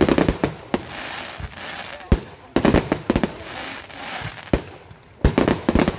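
Aerial fireworks shells bursting in volleys of sharp bangs: a cluster at the start, more about two to three seconds in, a single bang a little later and another rapid cluster near the end.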